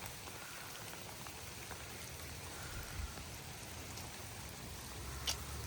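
Steady rain falling, an even hiss of drops on surfaces, with a single sharp tick about five seconds in.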